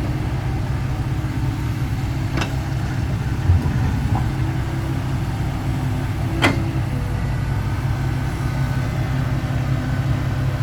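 Diesel engine running steadily at a low, even idle, with two sharp metallic knocks, about two and six seconds in.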